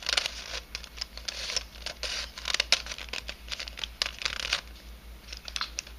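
3D-printed nylon helicopter cube puzzle being turned by hand: dry, irregular scraping and clicking as its pieces slide and snap against each other.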